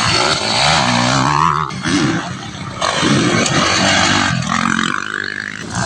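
Dirt bike engines revving, pitch surging up and down in several bursts.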